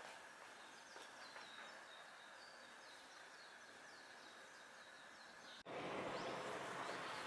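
Quiet outdoor background with faint, distant bird chirps. About five and a half seconds in, it cuts abruptly to a louder steady hiss.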